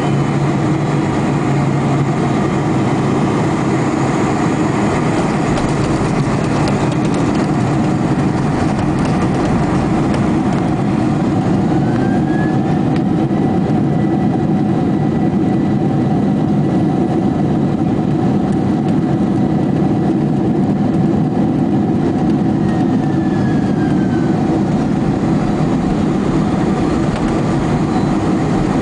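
Aircraft engines running with a steady, heavy noise. A thin whistle rises about twelve seconds in, holds, and falls away about twenty-four seconds in.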